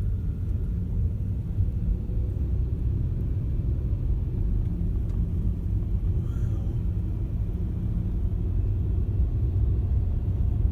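Steady low rumble of a car in motion, the engine and tyres heard from inside the cabin.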